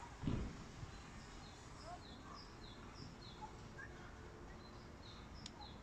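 Small birds chirping faintly: short, high chirps repeating a few times a second. A brief low thump comes just after the start.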